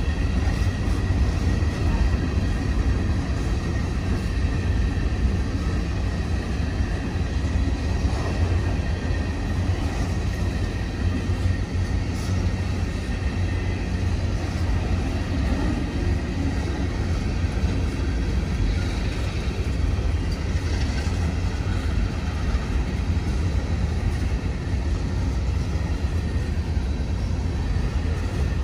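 Train rolling past with a steady, deep rumble that holds level throughout.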